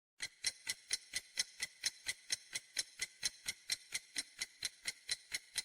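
Countdown timer ticking sound effect: a rapid, even clock-like tick, about four to five ticks a second, starting a moment after the question's answer options are read.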